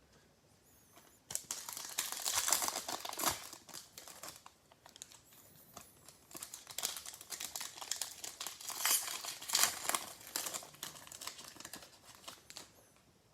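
Plastic trading-card pack wrapper crinkling and tearing as a pack is opened, in two long stretches of crackling.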